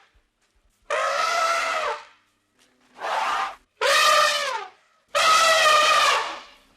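An elephant trumpeting: four loud, brassy calls in a row, each a second or so long and dropping in pitch at its end.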